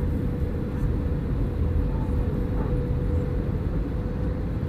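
Airbus A321 cabin noise in flight on approach: a steady deep rumble of engines and airflow through the fuselage, with a constant hum just under 500 Hz.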